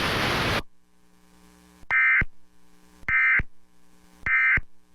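Emergency Alert System end-of-message signal: three short, identical bursts of warbling data tones about a second apart, closing the relayed severe thunderstorm warning. The broadcast hiss under the warning cuts off just before.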